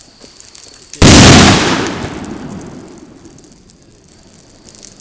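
A large firecracker exploding once with a loud bang about a second in, the blast dying away over a second or two.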